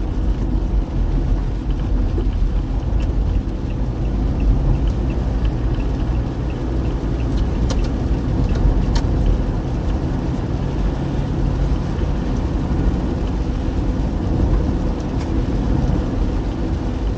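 A car driving at steady speed: a continuous low rumble of engine and road noise. A faint run of light ticks comes a few seconds in, and a few sharp clicks follow.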